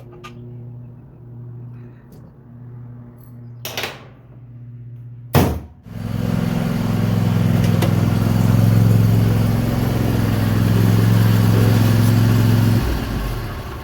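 Snapper 360z zero-turn mower's engine starting with a sharp bang, running loud and steady for about seven seconds, then shut off. Before it, a low steady hum.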